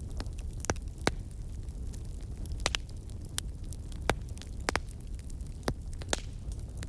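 Fire crackling: a steady low rumble of burning with about ten sharp, irregular pops and snaps.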